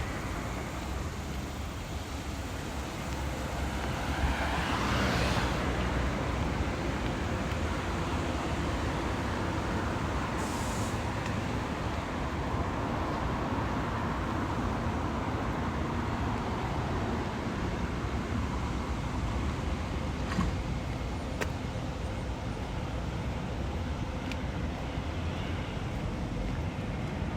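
Road traffic on a wet street with a steady low rumble; a car passes close about four to five seconds in.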